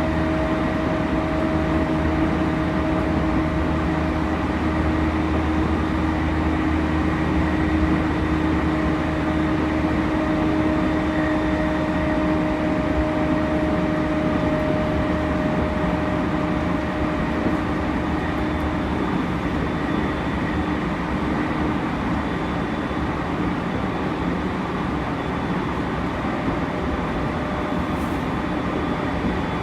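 JR East E231 series electric train with Mitsubishi IGBT-VVVF traction equipment running at speed, heard inside the passenger car: steady wheel-and-rail rumble with a level motor hum that weakens a little about halfway through.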